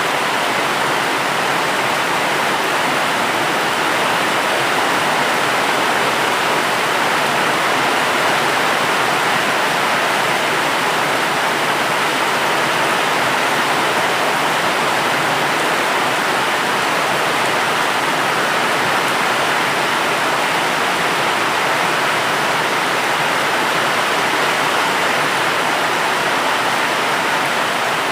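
Steady, dense rain: an even hiss with no separate drops, thunder or other events standing out, and no change in level.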